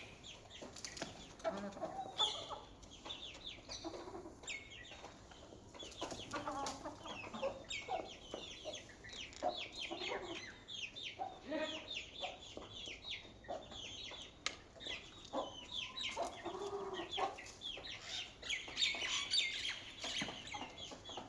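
Chicks peeping in a near-continuous stream of short, high calls, while a hen clucks low every few seconds.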